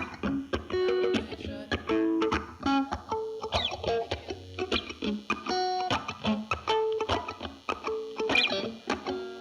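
Guitar music: a run of short plucked notes, each starting with a sharp pick attack.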